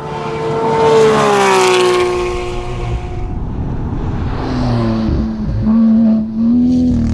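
Porsche 911 GT3 RS flat-six race engine at high revs. Its note falls in pitch over a couple of seconds as the car slows, then it pulls again at a steadier pitch, with two brief dips in loudness, near five and six seconds in, where the throttle lifts or a gear changes.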